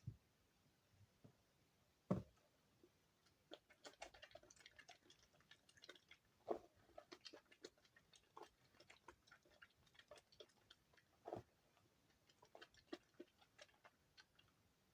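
Soap being handled by hand: quiet, irregular crackles and clicks, thickest in the middle, with two soft knocks, the first about two seconds in and the other near eleven seconds.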